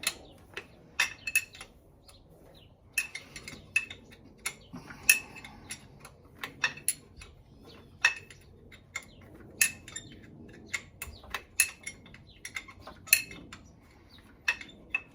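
Metal hand tools and parts clinking and clanking against each other at irregular intervals, as wrenches and sockets work on and are set down among engine parts. Some of the clinks ring briefly.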